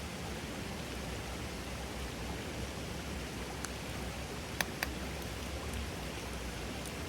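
Wood campfire burning: a steady hiss with a few sharp pops near the middle, two of them close together.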